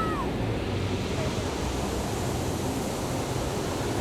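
Ocean surf washing on a beach: a steady, even rush of waves.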